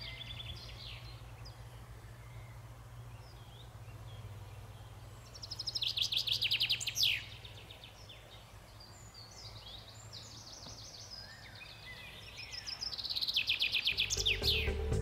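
A songbird singing twice, each song a fast trill of high repeated notes lasting about two seconds, with a few single chirps between, over a steady low rumble of outdoor background.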